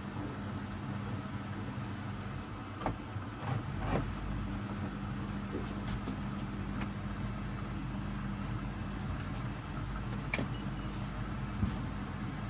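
Hoover front-loading washing machine running a wash cycle: a steady motor hum with a low rumble that strengthens about four seconds in, and a few light knocks.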